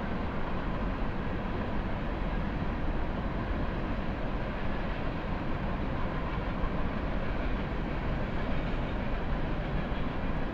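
Norfolk Southern train 12Z running past at about 55 mph: a steady rumble of wheels on rail.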